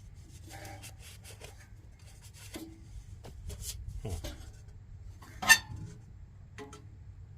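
Heater parts being handled by hand during disassembly: light rubbing and scattered small clicks, with one sharp clack about five and a half seconds in.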